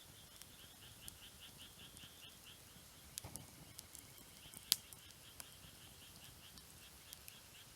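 Wood fire crackling, with scattered sharp pops; the loudest comes a little before five seconds in. Behind it, an animal chirps steadily about four or five times a second, and a brief low rumble comes about three seconds in.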